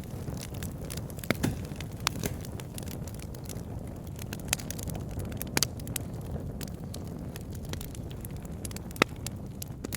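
Fire burning in a fireplace: a low steady rumble of flame with scattered sharp crackles and pops, the loudest one near the end.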